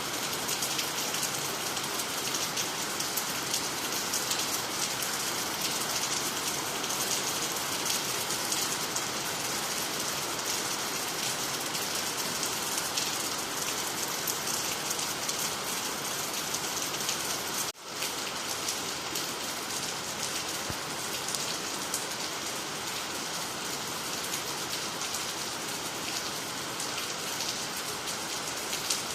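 Steady rain falling on the ground, on water and on nearby trees: an even hiss with no letup. Once, about two-thirds of the way through, the sound drops out for an instant and comes straight back.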